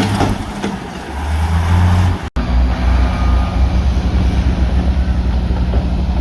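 Heavy diesel engine of earthmoving machinery running under load, with a rough, noisy stretch at first. A sudden break about two seconds in gives way to a steady low engine drone.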